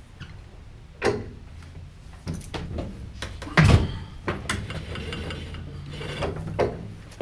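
Wood being handled: irregular knocks and rubbing, with the loudest thump about three and a half seconds in.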